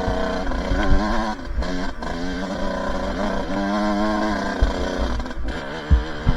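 Two-stroke dirt bike engine revving up and down as the throttle is worked on the trail, dropping out briefly a couple of times when the throttle is chopped. Low thumps come through underneath, the loudest near the end.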